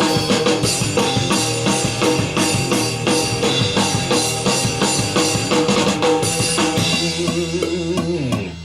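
Rock music with a full drum kit played hard, the snare cracking over guitar and bass, ending on a held chord that stops abruptly near the end.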